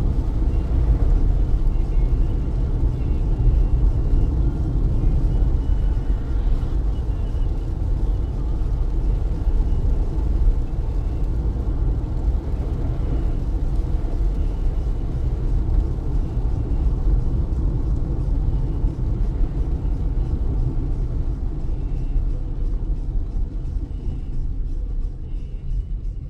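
Car driving on a wet road in heavy rain: a steady low rumble of tyres and engine with faint rain hiss, easing slightly near the end.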